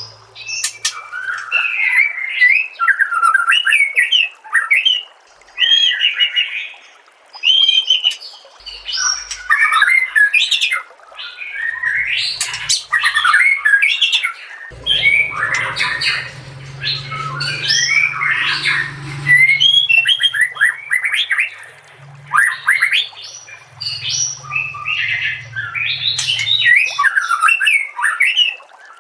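White-rumped shama (murai batu) singing a fast, varied song of whistled phrases and chattering runs, broken by short pauses.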